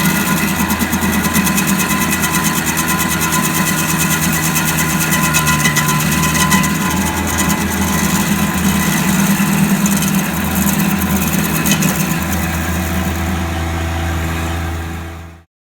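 Stump grinder's small gasoline engine running steadily, cutting off abruptly near the end.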